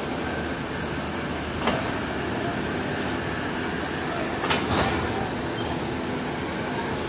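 Passenger train coaches rolling slowly out of a station, heard from a coach window: a steady rumble. There is a sharp clank a little under two seconds in and two more close together around four and a half seconds in.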